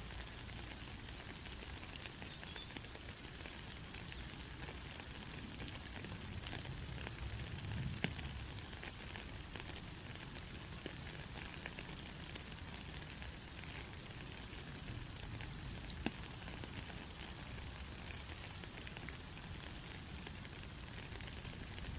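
Steady white noise played to help a baby sleep: an even hiss over a low rumble, with faint scattered crackles and a couple of sharper clicks, about eight and sixteen seconds in.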